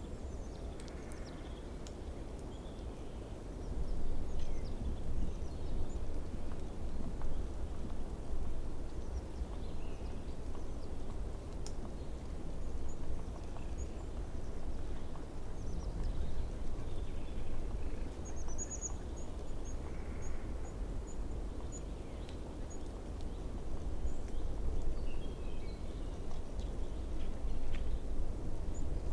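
Outdoor ambience: a steady low rumble with faint, scattered bird chirps over it, including a quick run of short, high notes about two-thirds of the way through.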